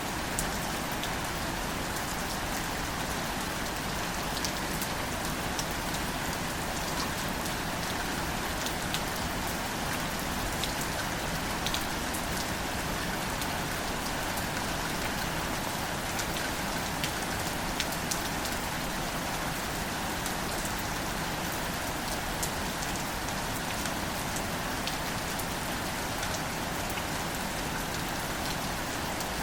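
Steady, gentle rain falling on wildflowers and foliage, an even hiss dotted with many small, sharp drop taps.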